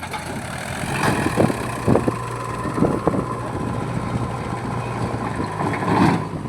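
Heavy diesel engine running under load, with a steady whine over it and irregular knocks and clanks. The loudest knock comes near the end.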